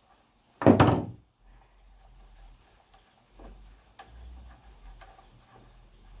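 A loud clunk and clatter about half a second in, lasting about half a second, followed by quieter handling noises with a few light clicks, as of tools and parts being handled during motorcycle front-end work.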